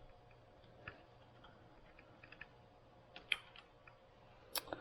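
Faint, scattered clicks and taps of hand tools and metal parts as a homemade holding tool is worked on a motorcycle clutch's locking nut, with a sharper click about three seconds in and another near the end, which fits the tool slipping off its rubber pad. A faint steady hum lies underneath.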